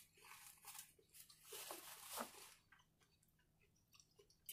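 A person chewing food close to the microphone, soft noisy bursts for about two and a half seconds, then it fades to near silence with a few faint mouth clicks.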